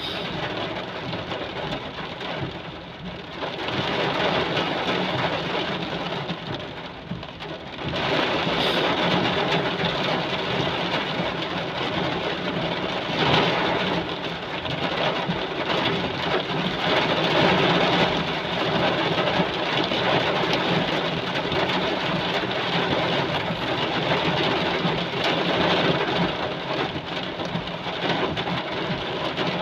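Heavy rain pouring down in a steady hiss, growing louder about four seconds in and again about eight seconds in.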